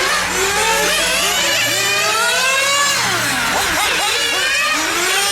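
Several nitro-engined 1/8-scale radio-control cars running on a track, their high-pitched engines revving up and down over one another. About three and a half seconds in, the engines drop and climb again together, as when the cars brake into a corner and accelerate out.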